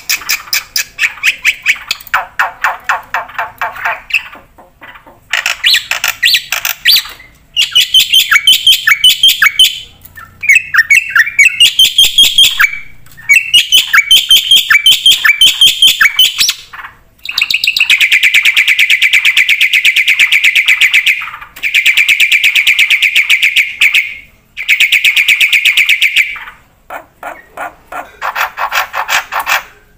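Black-winged myna (white starling) singing nonstop in a varied song of fast repeated chattering and trilling phrases, broken by short pauses. Near the end come longer, evenly rattling runs. The song is filled with mimicked phrases of other birds.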